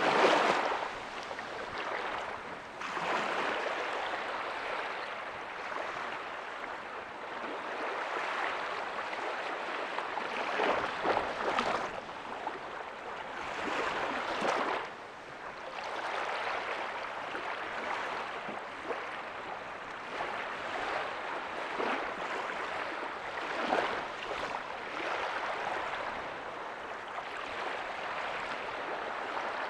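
Ocean waves breaking softly on a beach: a steady wash of surf with louder surges every few seconds as waves break and run up the sand.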